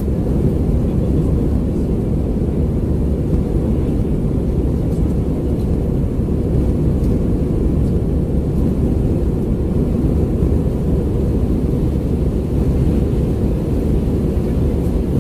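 Steady, loud cabin noise of an Airbus A320 airliner: the engines and airflow, a low even rumble with no change in pitch.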